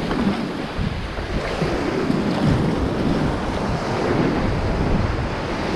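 Sea waves and water sloshing at sea level, with wind buffeting the microphone in a steady rumble.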